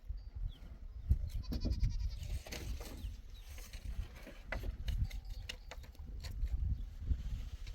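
A flock animal bleating, one short call about one and a half seconds in, over a low rumble and scattered clicks and knocks.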